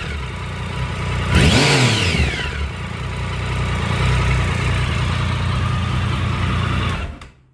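2007 Triumph Speed Triple 1050's inline three-cylinder engine blipped once to a quick rev and let back down to a steady idle, then it stops near the end. On the let-off it makes a faint steady knock, the suspected engine knock being diagnosed.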